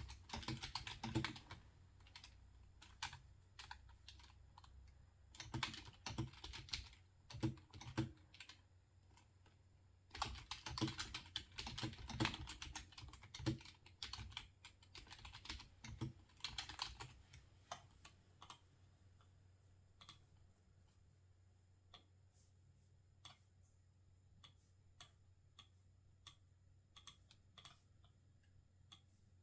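Quiet typing on a computer keyboard in several fast bursts, thinning after about eighteen seconds to scattered single clicks.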